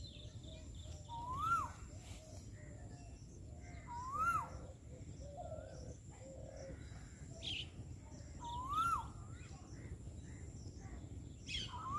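Birds calling: one bird repeats a loud whistled note that rises and drops back, about every three to four seconds, over quieter chirping from other birds.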